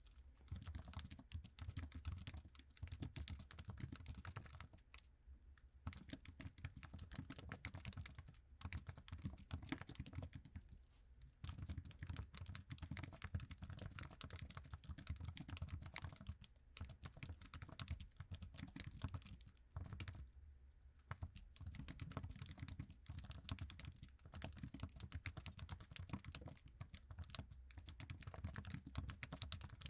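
Typing on an Apple iMac's standard keyboard: fast, continuous key clicks with a sticky sound, broken by a few brief pauses.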